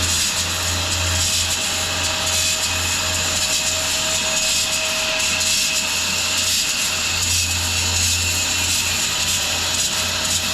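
Large bandsaw mill cutting through a big maple log: a steady hiss of the blade in the wood over a low, even hum from the mill.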